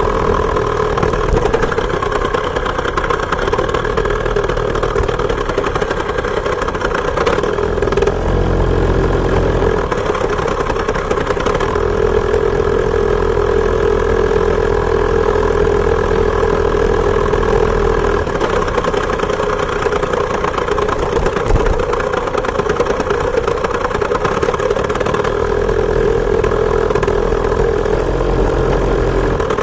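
Two-stroke chainsaw engine of a homemade moped running steadily under way, its note dipping briefly about eight seconds in and again near the end.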